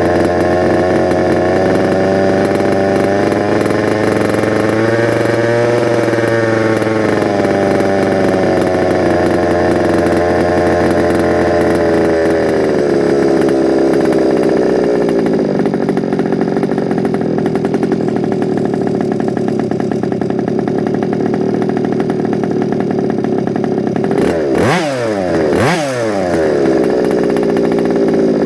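Small two-stroke petrol engine of a large-scale FG Sportsline RC car running steadily on its first start-up, blipped twice in quick succession near the end.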